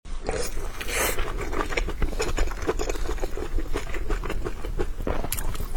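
Close-miked eating of steamed dumplings: wet chewing with a dense, irregular run of small mouth clicks and smacks.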